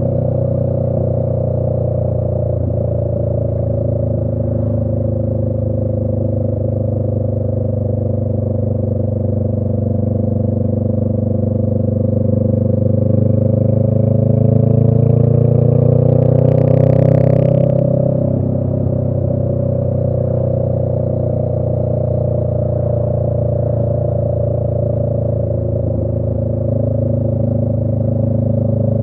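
Honda Rebel 500's parallel-twin engine through an aftermarket shorty exhaust, running under way. Its pitch climbs slowly and it grows a little louder over several seconds, with a short hiss at the top, then the pitch drops back as the rider eases off or shifts.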